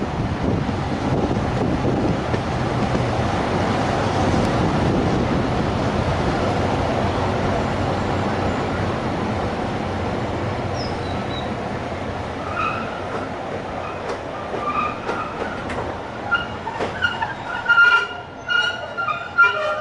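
Railway carriage running along the line, heard from on board, a steady rumble of wheels on rail that slowly eases off. From about two-thirds of the way through come intermittent high-pitched wheel and brake squeals, more frequent near the end, as the train slows for a halt.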